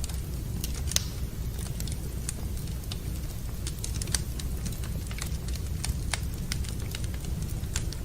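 Wood fire burning in a fireplace, crackling and popping irregularly over a steady low rumble, with one sharper pop about a second in.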